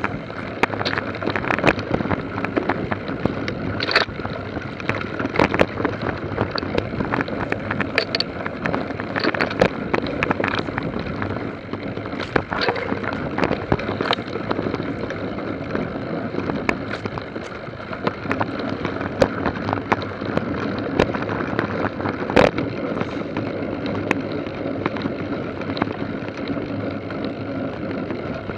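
Mountain bike being ridden over a rough forest track: steady tyre rolling noise with frequent sharp clicks and knocks from the bike rattling over bumps.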